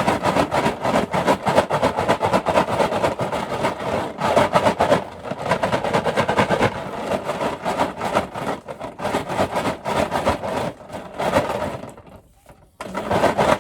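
Numbered raffle balls clattering and rattling in a raffle box as it is shaken or turned: a dense, continuous run of clicks that stops briefly near the end, then starts again.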